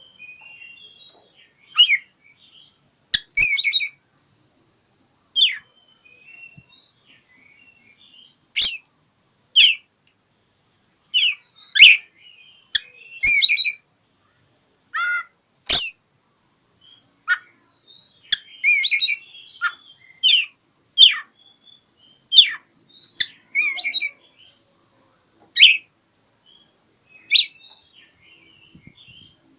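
Oriental magpie-robin (kacer) singing: loud, short, sharp notes about once a second, with softer twittering in between. It is a challenging song, the bird calling out for a rival.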